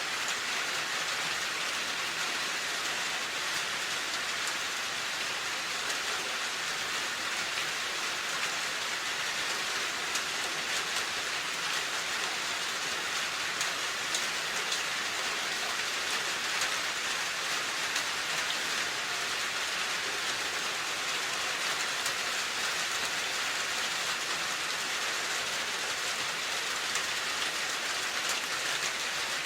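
Steady, even rain falling on a surface, a dense hiss with faint scattered drop ticks.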